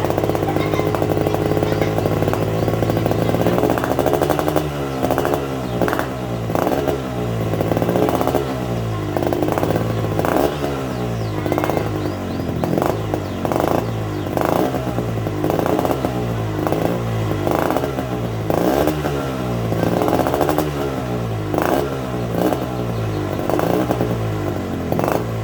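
Yamaha RX-King two-stroke single-cylinder motorcycle engine running through its exhaust, held steady for a few seconds and then revved in repeated quick throttle blips, about one a second, with sharp crackles at the peaks.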